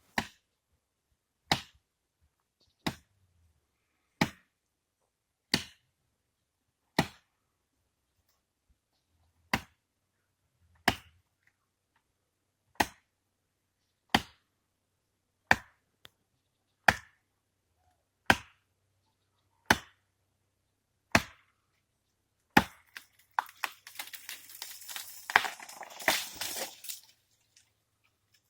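Axe strokes chopping into a tree, one sharp blow about every second and a half. Near the end the blows give way to a few seconds of cracking and crashing.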